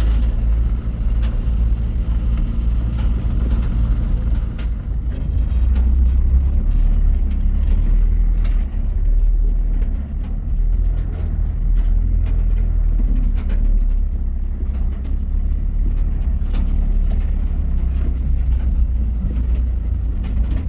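A motor vehicle's engine running steadily with a low rumble, with light rattles and clicks over it.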